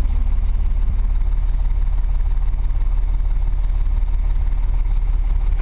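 Engine of harvest machinery running steadily, a constant deep low rumble.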